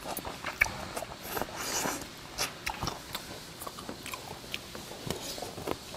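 Close-up chewing and mouth smacking, with a run of irregular short clicks, as a person eats the meat off a boiled chicken neck.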